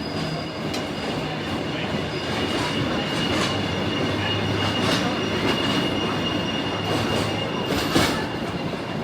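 Steam-hauled train carriage running along the track, its wheels squealing in a thin steady high tone over the rumble of the running, with occasional sharp clicks over rail joints, the loudest about eight seconds in.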